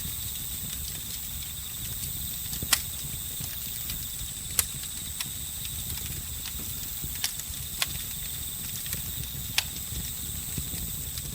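Campfire crackling over a low steady rumble, with a handful of sharp pops, while crickets chirp in a steady high trill throughout.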